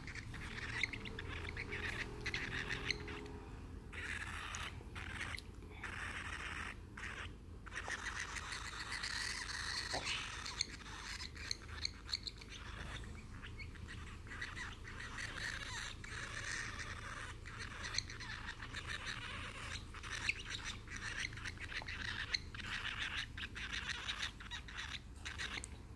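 Birds chirping and chattering almost continuously, a scratchy twittering with short breaks, over a steady low hum.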